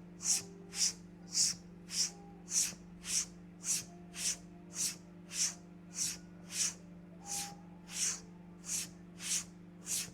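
Razor blade scraping across a man's face in short, even strokes, about two a second, over a faint steady low hum.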